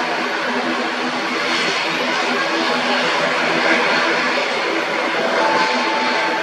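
Propeller airliner's engines running, a loud steady drone with a broad rush over it and a thin higher tone joining near the end.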